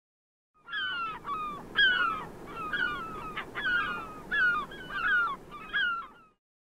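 Birds calling: a quick run of short calls, each falling in pitch, over a low rushing background. It starts abruptly under a second in and stops abruptly shortly before the end.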